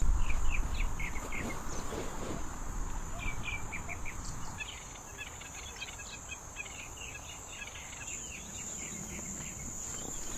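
Steady high insect drone, like crickets, with runs of short repeated chirps. A low rumble, the loudest part, comes in the first second or two and then eases.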